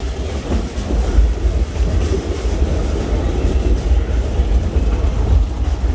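Amusement-park train rolling along its track, a steady low rumble.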